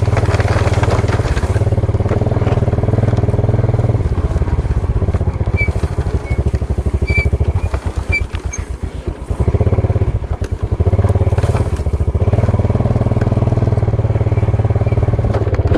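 Small motorcycle engine running steadily under load, easing off about eight seconds in and picking up again about two seconds later.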